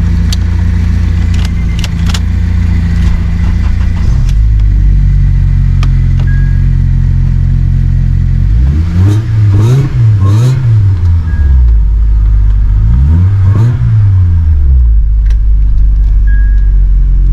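Supercharged Acura engine running, with three quick revs that rise and fall in pitch: two close together about nine seconds in and one more about thirteen seconds in. A few light clicks and rattles sound over it.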